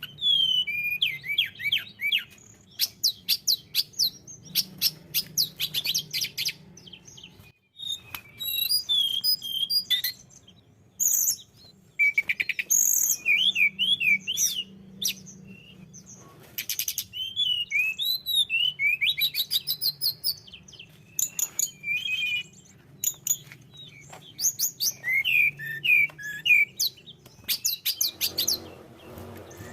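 Tledekan gunung singing: a busy run of high chirps, fast trills and short whistled glides in quick phrases with brief pauses between, over a faint low hum.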